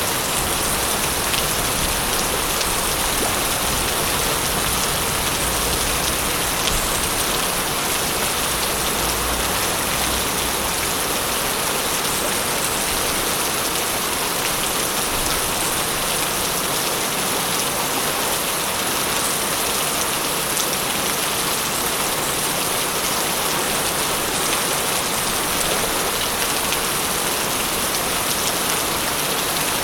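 Steady, dense rain falling and pattering on surfaces, with fine drop ticks throughout. A low rumble underneath fades out about halfway through.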